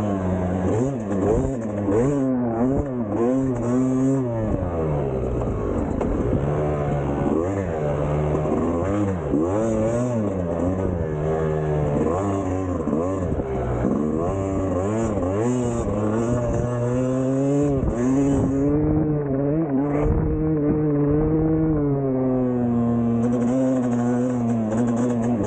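Two-stroke dirt bike engine ridden hard, revving up and falling off again and again, its pitch climbing and dropping every second or two.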